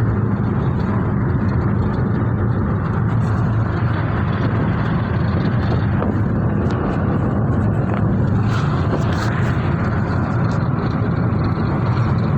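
Car running, a steady low rumble of engine and road noise with no change in level.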